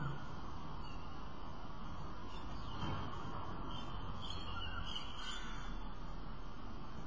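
A few faint bird calls over a steady outdoor background hum, most of them around the middle.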